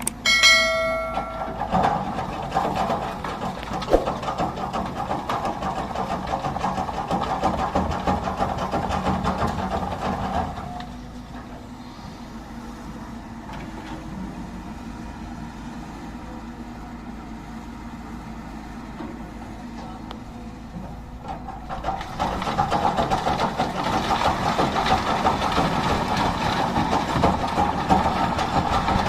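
A brief horn toot right at the start, then heavy diesel engines running. The engine noise drops quieter for about ten seconds in the middle and grows louder again for the last seven seconds.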